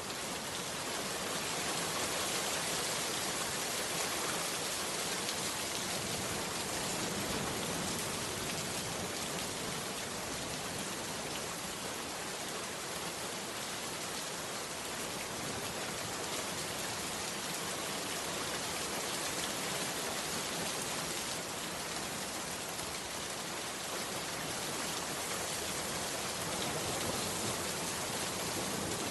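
Heavy rain falling steadily, an even hiss of drops that holds the same level throughout.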